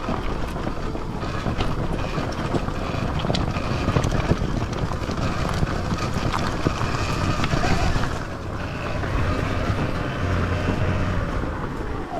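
Sur-Ron Ultra Bee electric dirt bike being ridden off-road: a faint motor whine under wind on the microphone and tyre and ground noise, with scattered knocks. It gets a little quieter about eight seconds in.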